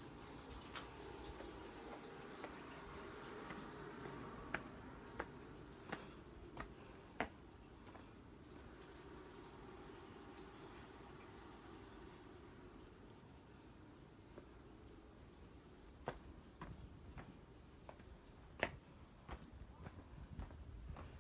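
Night insects trilling in one steady, unbroken high note, with two short runs of footsteps about a third of the way in and again near the end.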